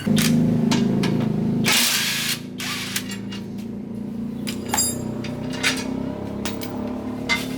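A steady machine hum, louder for the first second or two, with a short hiss about two seconds in and scattered metallic clinks and knocks of work on metal parts.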